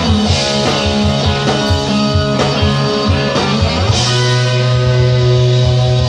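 Live rock band playing: guitar and bass over steady drum beats, then, about four seconds in, the band lands on a long held chord.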